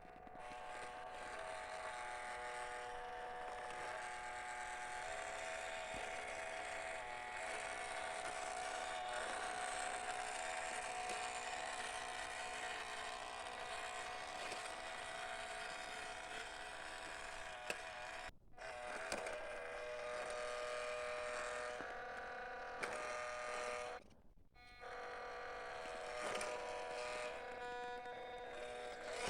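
RC crawler truck's electric motor and gearbox whining steadily as it drives, the pitch shifting in small steps with the throttle. It cuts out briefly twice in the second half.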